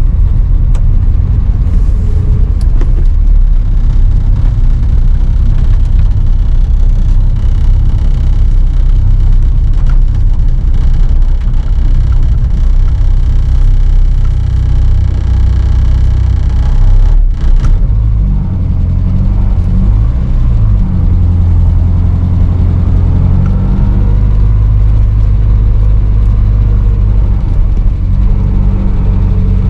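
Car on the move, with a loud, steady low rumble of road and engine noise heard from inside the cabin. About 18 seconds in, the engine note shifts, then settles into a steadier low hum.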